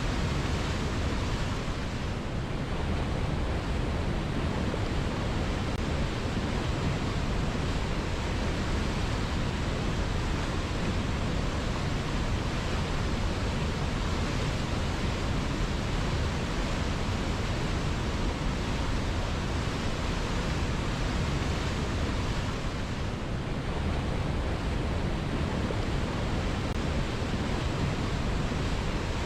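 River water flowing steadily, a continuous rushing noise.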